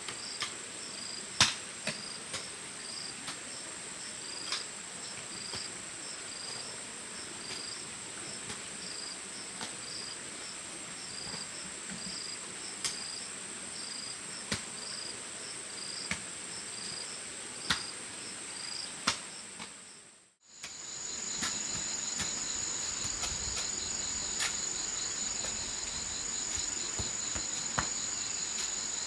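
Crickets shrilling in a steady high tone, with a faster pulsing chirp beneath and sharp knocks every second or two, which are the loudest sounds. About two-thirds of the way through, the sound dips out briefly and comes back with a slightly lower, stronger insect drone.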